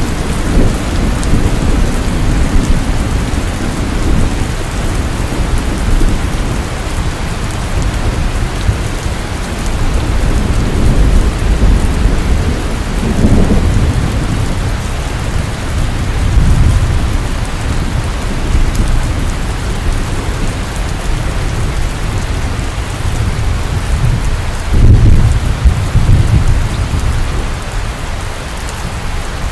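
Steady heavy rain, with low thunder rumbling in several swells; the loudest rumble comes a few seconds before the end.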